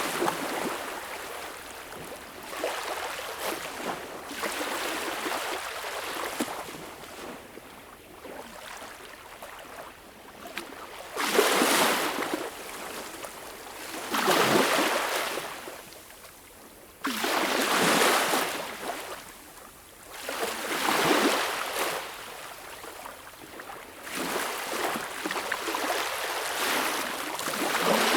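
Small waves washing onto a beach, each breaking into a hiss and then drawing back, one every few seconds. Three of the washes, partway through, are louder than the rest.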